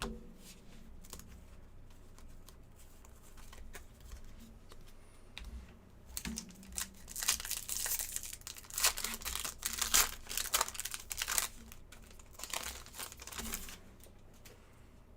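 Foil trading-card pack wrapper crinkling and tearing as it is opened, with light clicks of cards being handled. The crinkling is loudest through the middle several seconds.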